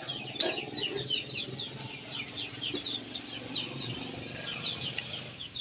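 Birds chirping steadily in the background: many short, falling chirps, several a second, over a faint steady high-pitched whine.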